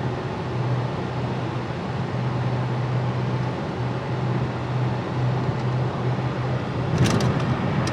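Car engine and road noise heard from inside the moving car's cabin, a steady low drone. A brief knock or clatter comes near the end.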